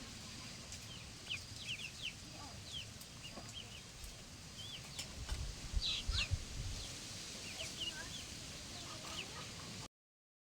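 Young poultry chicks peeping: many short, high calls scattered throughout, with a few low thuds around the middle. The sound cuts off abruptly near the end.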